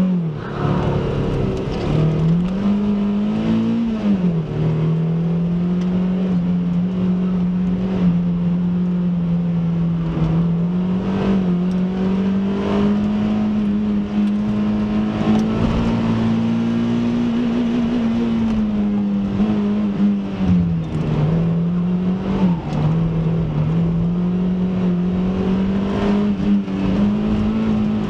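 Mazda MX-5 NA's 1.6-litre four-cylinder engine driven hard at high revs through a slalom course. Its pitch rises and falls with the throttle and dips briefly a few times.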